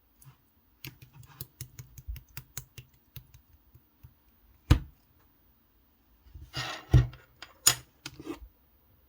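Red translucent slime being played with by hand, giving a run of quick sharp clicks, then a single loud pop about halfway through, and near the end a brief squelch followed by two loud pops.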